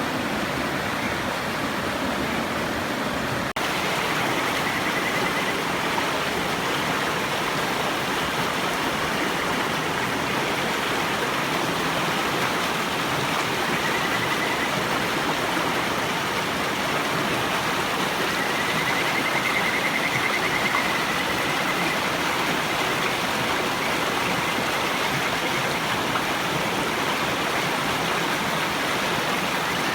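River water rushing steadily, with kajika frogs (Buergeria buergeri) giving high, trilled calls a few times over it, the longest lasting several seconds about two-thirds of the way in.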